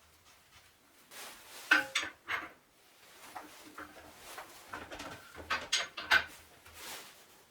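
Steel parts and tools clinking and clanking as they are handled: a scatter of sharp metal knocks, a few with a brief ring, the loudest about two seconds in and again near the end.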